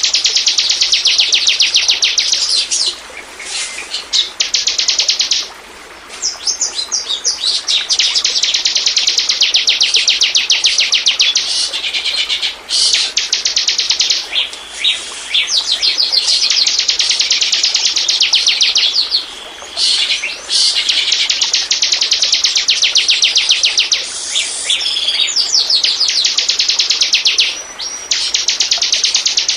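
Bar-winged prinia (ciblek) singing: long bouts of fast, rapidly repeated high-pitched notes, broken by a few short pauses.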